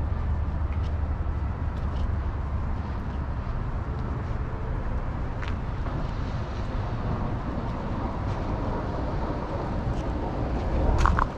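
Steady low rumble of city street traffic with faint scattered clicks. Near the end comes a brief louder sound with a short high tone.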